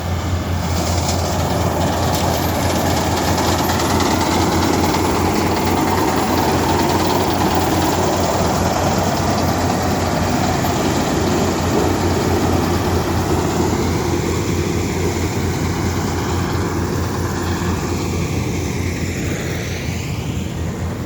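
Combine harvester running steadily while harvesting paddy, a loud mechanical drone with a constant low hum, easing off a little near the end.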